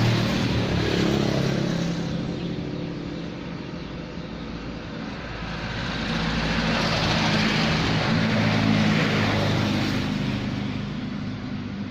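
Vespa two-stroke scooter engine running, dropping in revs about two seconds in and picking up again around six seconds before easing off near the end.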